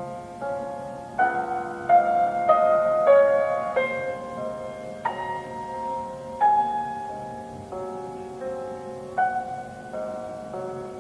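Solo piano playing a slow, tender classical melody, with single notes and chords struck every half second to second and left to ring out.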